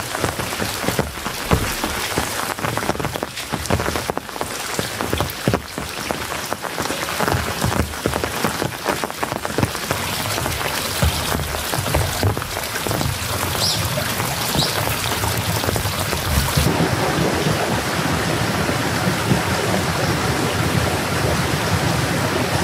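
Steady rain striking a tent's fabric, many separate drops hitting at once. About 17 seconds in, the sound changes abruptly to a smoother, even rush of rain.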